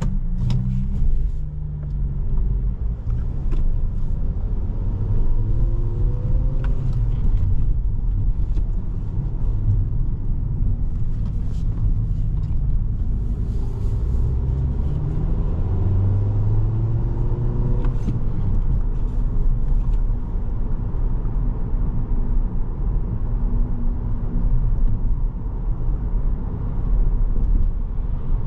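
A 2017 Volkswagen Jetta SE's 1.4-litre turbocharged four-cylinder engine and road noise heard from inside the cabin while driving, with a steady low rumble. The engine pitch rises twice as the car accelerates.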